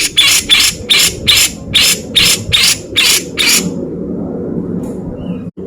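Cucak jenggot (grey-cheeked bulbul) giving a fast run of sharp, loud, rasping 'beset' calls, about four a second. The calls stop about two-thirds of the way through, leaving only a low background hum.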